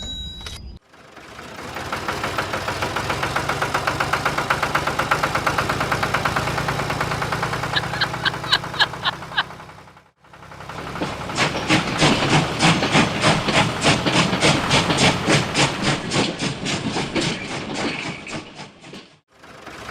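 Small engine running with a rapid, even knocking beat. There are two running passages cut together, with an abrupt break about halfway and another near the end.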